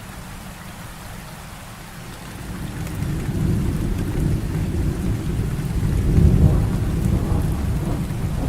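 Heavy rain falling steadily, with a long low roll of thunder that builds about two seconds in, peaks around six seconds and keeps rumbling.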